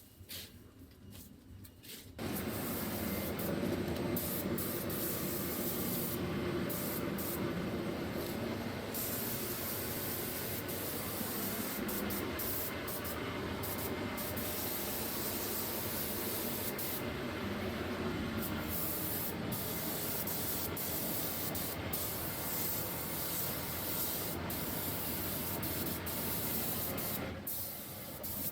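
Paint spray gun hissing steadily as it sprays, starting about two seconds in.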